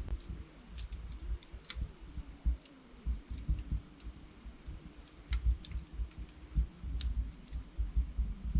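Log fire burning in a fireplace, crackling with irregular sharp pops, the loudest about two seconds in and again near seven seconds, over a low, flickering rumble of the flames.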